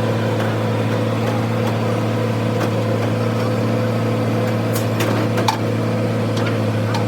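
A steady machine hum, like an engine running at a constant speed, with a few sharp metallic clinks near the end.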